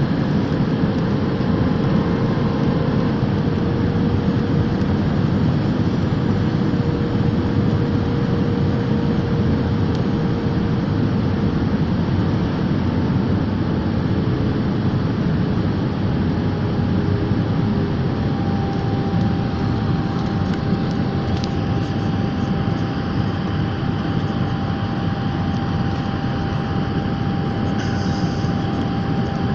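Steady engine and airflow noise of an aeroplane in flight, heard from inside the passenger cabin, with faint steady hums riding on it.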